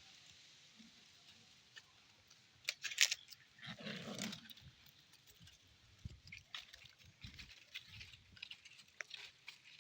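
Puppies scuffling and pattering, with scattered light clicks and a short puppy vocalisation about four seconds in.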